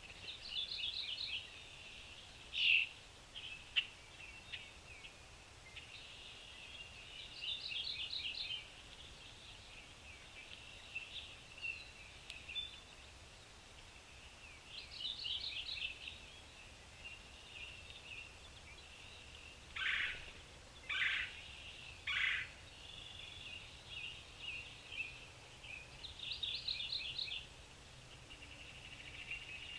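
Songbirds singing: a short, rapid trilled phrase repeated every several seconds, with three sharp, louder calls in quick succession about two-thirds of the way through.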